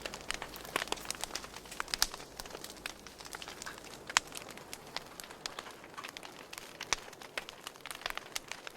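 Wood fire crackling, with irregular sharp pops and snaps over a low hiss; the sharpest pops come about two and four seconds in.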